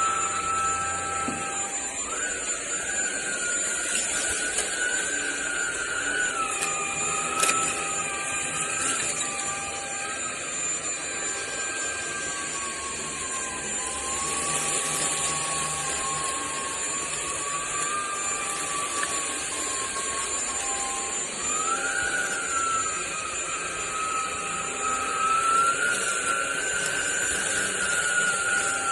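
Fieety cordless stick vacuum running, its motor giving a steady rush of air with a whine that drifts up and down in pitch as the suction load changes.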